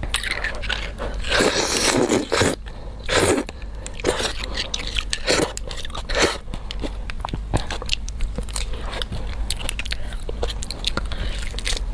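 Close-miked biting and chewing of beef bone marrow, with many short crunching clicks and a few longer noisy stretches in the first few seconds.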